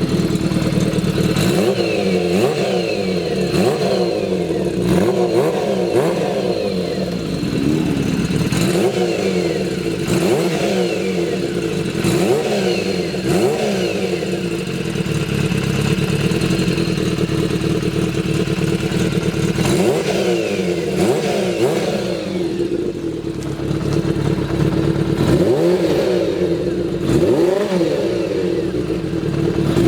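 Kawasaki Z400FX air-cooled inline-four, its engine overhauled, idling and revved with short throttle blips: the pitch rises and falls back to idle about seven times, with a longer stretch of plain idle in the middle.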